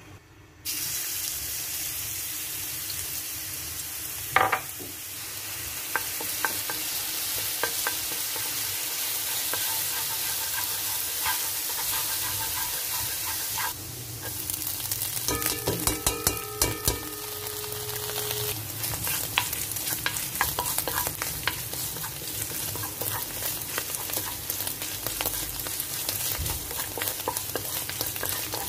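Chopped garlic hitting hot oil in a nonstick pan and sizzling steadily, the sizzle starting suddenly a little under a second in. There is a single knock about four seconds in. From about halfway through, a spatula stirs and scrapes against the pan, adding quick clicks over the frying.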